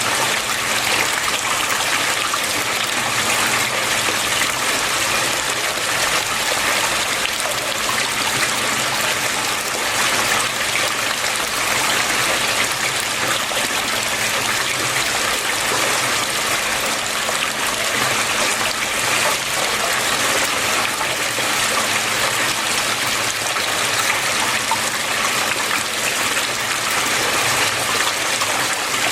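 Water flowing steadily, a continuous even rush and trickle with no breaks.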